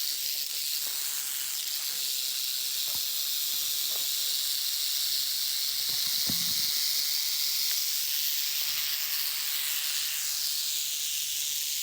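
Canebrake rattlesnake (timber rattlesnake) buzzing its tail rattle steadily and without a break, a high, even hiss. This is its warning to stay away.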